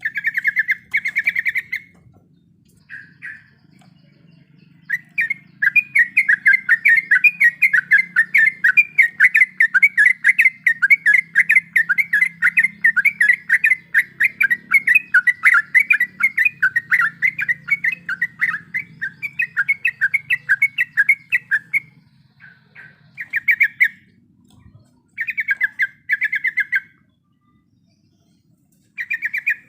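Yellow-vented bulbul (trucuk) singing fast rolling trills of rapidly repeated notes: a short burst, then one long trill lasting about seventeen seconds, then a few short bursts near the end.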